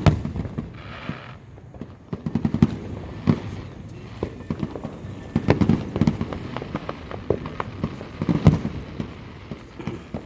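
Fireworks going off in irregular volleys of bangs and crackles, with clusters of sharp reports every few seconds.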